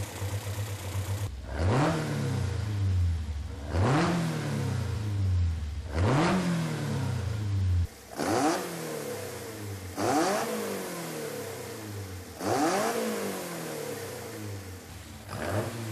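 Four-cylinder engine on twin Weber carburettors being blipped from idle about every two seconds: seven quick revs, each rising sharply and sinking back toward idle, at times reaching over 4,000 rpm.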